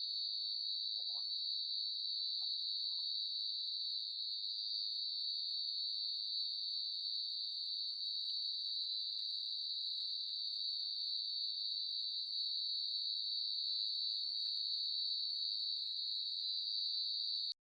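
Night insects in the forest making one continuous high-pitched trill that holds steady in pitch and loudness, then cuts off suddenly near the end.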